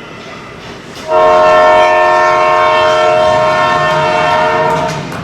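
Arena scoreboard horn blaring a steady chord of several tones. It starts about a second in, holds for nearly four seconds, and cuts off near the end.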